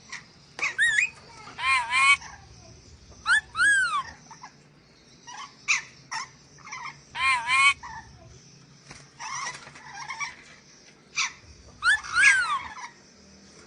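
Nuri dora parrot calling: a series of about ten loud, shrill screeches, some arching down in pitch and others short and scratchy, at irregular intervals over a faint steady high whine.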